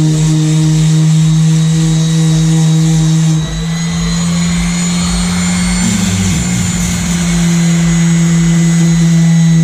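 Power sander running steadily with a loud motor hum while sanding a boat; its pitch wavers briefly about halfway through.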